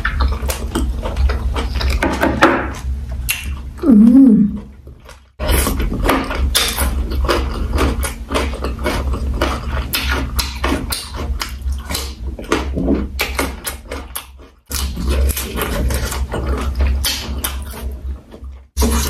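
Close-miked eating sounds: chewing and wet mouth clicks and smacks while eating boiled cow penis and offal with prahok sauce and raw vegetables, over a steady low hum. About four seconds in, a short, loud hummed vocal sound rises and falls in pitch.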